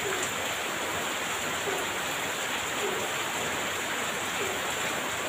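Heavy rain pouring steadily, a dense even hiss with no thunder in it, and a faint short note recurring about once a second underneath.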